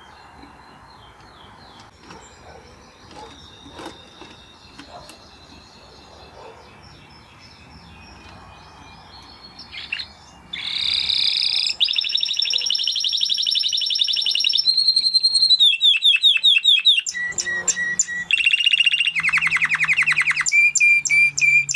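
Canary singing, likely a Spanish Timbrado: soft, faint twittering at first, then from about halfway a loud song of rapid trills and rolls that changes its pitch and speed every second or two.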